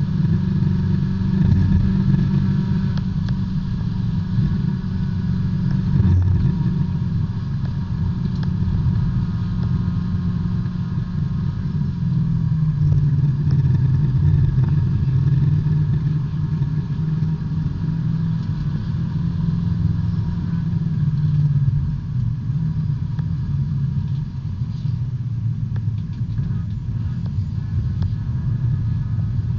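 Small four-cylinder B-Spec race car engine heard from inside the cabin, running hard at racing speed, its pitch rising and falling with throttle and gear changes. The level drops briefly about 22 seconds in.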